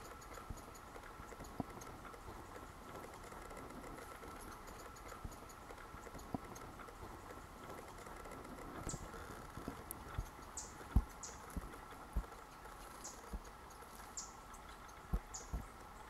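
Quiet woodland ambience with a steady faint hum. From about nine seconds in, a small songbird gives a series of short, very high falling chip notes, spaced irregularly about half a second to a second apart, and scattered soft low thumps come through, the loudest about eleven seconds in.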